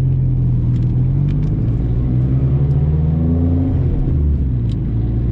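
Big-turbo Hyundai Genesis engine running at low, steady revs after a roll race. Its pitch rises slightly about three seconds in and drops back about a second later.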